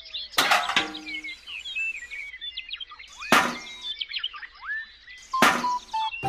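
Birds chirping throughout, broken by three sharp knocks: one just after the start, one a little past the halfway point and one near the end.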